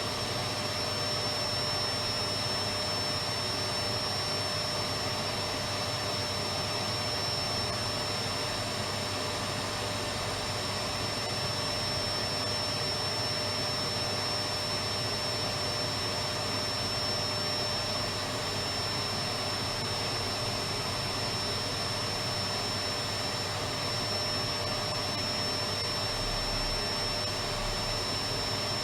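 Electric vacuum cleaner running steadily: a constant rushing noise with a high whine held on one pitch, unchanging throughout.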